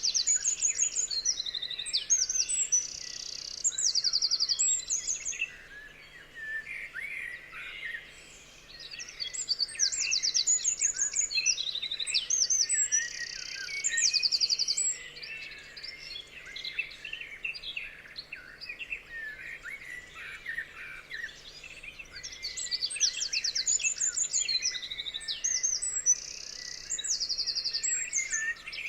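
Forest birds singing. One bird's loud song, with rapid high trills, comes three times: at the start, around ten seconds in, and again about twenty-three seconds in. A steady chorus of other birds chirping runs beneath it.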